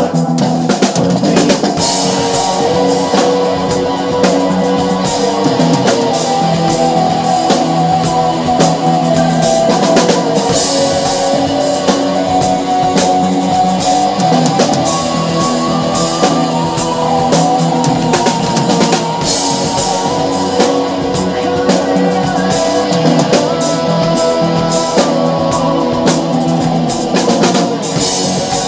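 Rock music: a Sonor drum kit with Paiste cymbals played along to the song's backing track with electric guitar, steady and loud throughout.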